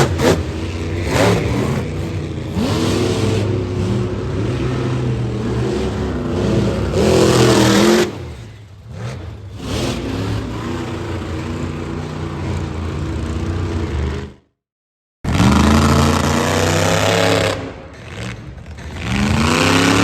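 Monster truck engines running loud and revving hard, the pitch sweeping up again and again. The sound cuts out completely for under a second about two-thirds of the way through.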